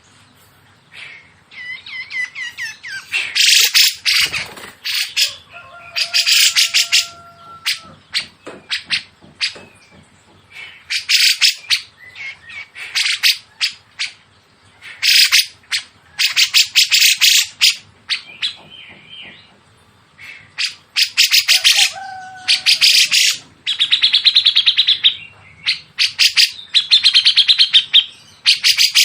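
Songbird calls from a bird-song training recording: bursts of very fast, harsh, high notes, each about a second long, come every second or two. A few lower whistled slurs fall between them.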